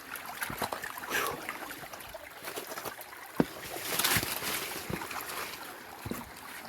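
Scattered knocks, snaps and rustling of movement through brush and fallen wood, over the steady trickle of a creek, with one sharp click about three and a half seconds in.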